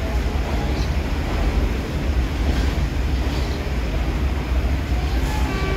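Steady low rumble of a train moving through the station, with wind buffeting the microphone.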